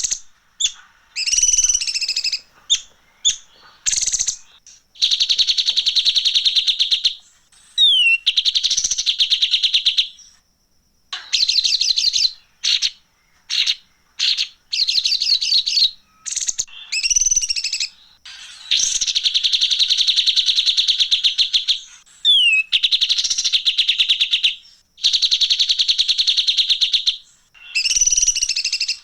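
Songbird giving harsh, rapid buzzy trills of about two seconds each, broken up by short sharp chirps and a quick sweeping whistle. The same sequence comes round again about every sixteen seconds, as in a looped 'masteran kasar' recording of rough song used to teach caged birds.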